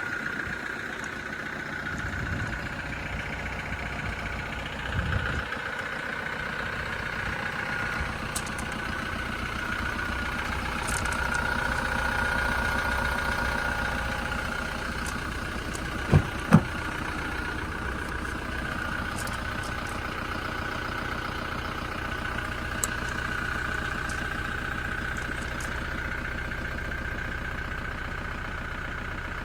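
A vehicle engine idling steadily. About halfway through come two sharp knocks half a second apart.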